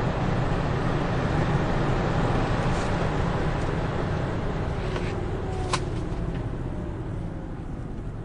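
Cabin sound of a 1999 Volvo S80 T6's twin-turbo straight-six pulling at high revs with loud road noise, easing off about five seconds in as the revs and speed drop. A couple of sharp clicks and a faint falling whine come as it slows.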